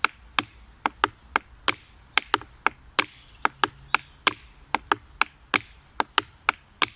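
Hand-played percussion introduction: sharp claps or clicks, about three a second, in a repeating rhythm.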